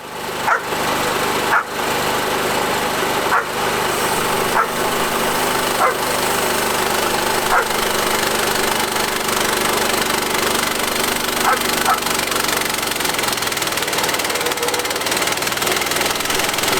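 Portable bandsaw mill running under load as its blade cuts through a large black walnut log: a steady engine and blade noise. Short high squeaks come through irregularly, several in the first half and a couple near the end.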